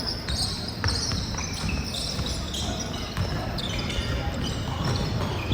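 Basketball game on an indoor court: sneakers squeaking in short high chirps again and again, a ball bouncing, and players' voices in a large echoing hall.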